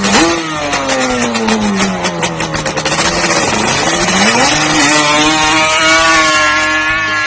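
An off-road vehicle's engine revving up sharply, then dropping in pitch over about two seconds; it revs up again about four seconds in and holds a steady high rev.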